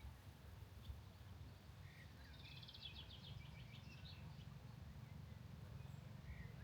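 Faint birdsong: a rapid trill of repeated high chirps about two to four seconds in, with a few scattered single calls, over a low, steady rumble.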